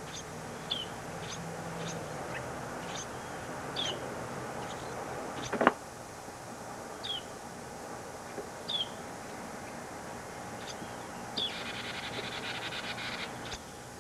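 Small birds chirping at the nest, short high notes that drop in pitch, roughly one a second, over a steady tape hiss. About two seconds of rapid buzzy chatter come near the end, and there is a single sharp click midway.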